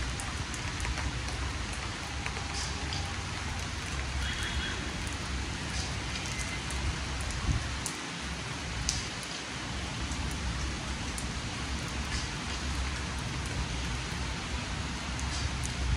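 Steady rain falling, with scattered drops ticking on a surface and a low rumble underneath.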